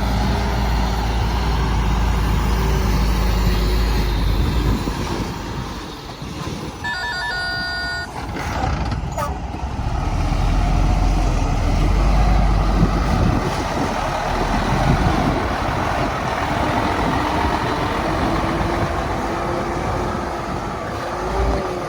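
Hyundai dump truck's diesel engine running under load, with a short string of reversing-alarm beeps about seven seconds in and a sharp click shortly after.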